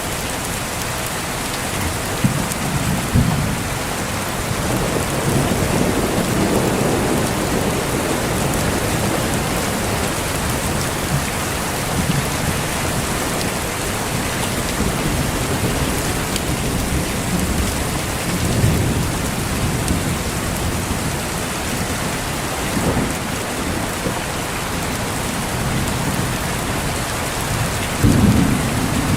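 Heavy rain falling steadily in a thunderstorm, with low rolls of thunder rumbling through it several times, the strongest near the end.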